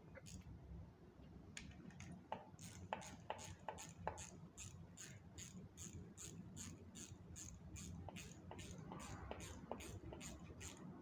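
Ratchet wrench clicking steadily, about four clicks a second, tightening the bolts on the timing gears of a Kia K2700's J2 engine, with a few sharper knocks among the first clicks. The sound is faint.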